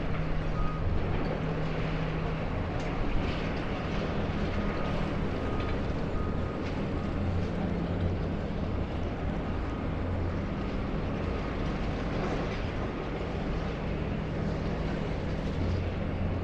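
Demolition excavator's diesel engine running steadily, with a few faint knocks from the concrete being broken.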